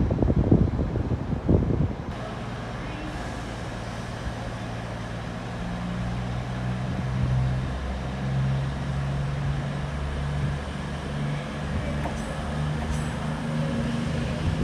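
Wind buffeting the microphone for about two seconds, then a train's diesel engine running steadily, its low hum shifting up and down a little in pitch.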